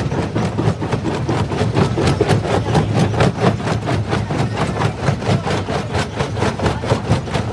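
Jaw crusher working: a steady low mechanical drone under a rapid, uneven run of cracks and knocks, several a second, as stone is broken between the jaws.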